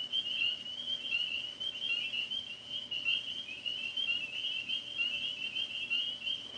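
A chorus of tree frogs calling from the trees: many short, overlapping high calls run together into a steady trilling chorus.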